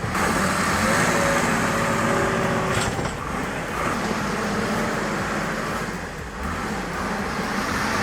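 An engine running steadily, with a constant mechanical hum.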